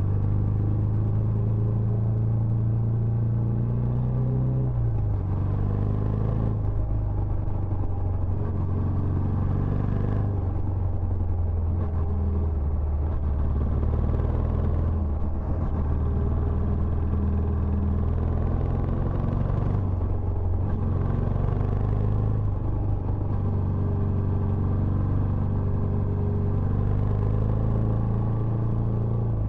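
Benelli Imperiale 400's single-cylinder engine running through its stock exhaust, a steady low note with slight dips in pitch about five, ten and twenty seconds in.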